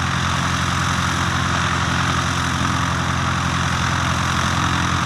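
Cessna 152's four-cylinder Lycoming O-235 engine and propeller running steadily at low power while the aircraft is on the ground for taxi-out. The engine note stays even throughout.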